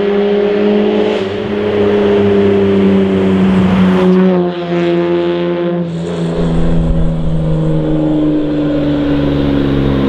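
Toyota JZX90 Mark II's 1JZ-GTE twin-turbo straight-six exhaust running at a steady drone. The pitch dips and shifts about four to six seconds in, then holds steady again.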